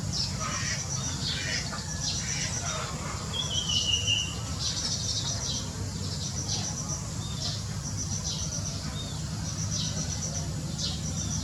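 Small birds chirping and calling, with a short, clear call about four seconds in, over a high, pulsed trill that repeats roughly once a second and a steady low hum.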